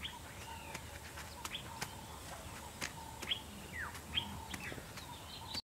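Faint ambient birdsong: scattered short chirps, some sliding down in pitch, over a faint steady hum. The sound cuts off suddenly near the end.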